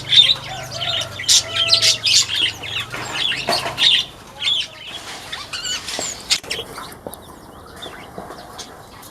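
Small aviary birds, weaver birds among them, chirping rapidly with bursts of wing flapping. The chirping is busiest for the first four seconds or so and thins out to scattered calls after that.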